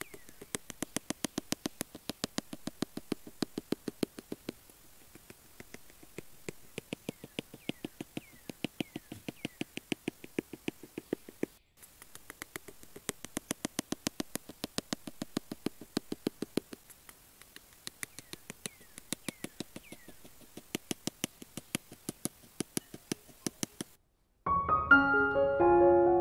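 Rapid light clicks or taps, about four to five a second, in runs with short pauses. Piano music comes in near the end.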